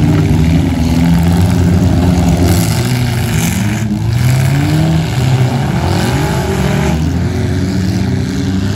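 Several demolition derby cars' engines running hard at once, revving up and down in overlapping pitches as the cars drive and ram around the dirt arena.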